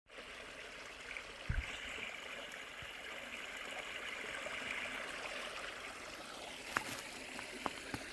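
Water flowing in a small stream, a steady rushing hiss. A dull thump comes about one and a half seconds in, and a few light clicks near the end.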